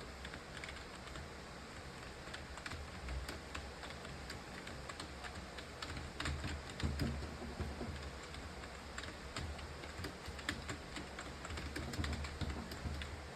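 Typing on a computer keyboard: a fast, irregular run of keystroke clicks, with a few louder strokes about halfway through and again near the end.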